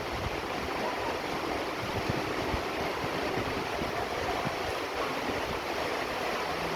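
Steady rain falling, an even hiss with a few faint low knocks.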